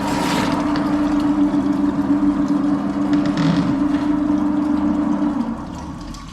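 A motor running with a steady hum over a rough mechanical noise, fading away near the end.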